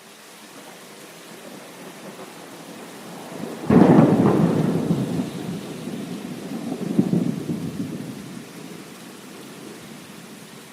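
Steady heavy rain with a thunderclap that breaks in suddenly about a third of the way in and rolls on as a rumble, swelling again once before fading back under the rain.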